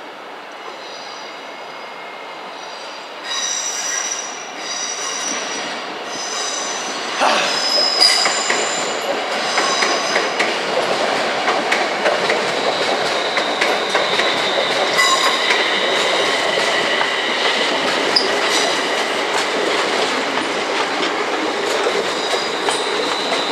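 London Midland Class 350 Desiro electric multiple unit running slowly over curved track and pointwork, its wheels squealing in several high, shifting tones and clicking over rail joints and points. It grows louder at about three seconds and again at about seven seconds as it nears, then passes close by.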